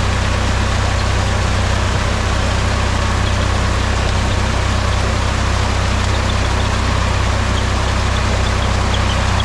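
Mahindra tractor's diesel engine running at a steady speed, a constant low drone.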